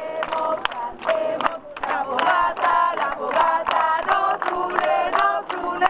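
A group of young voices chanting together in unison, with a regular sharp beat running through it.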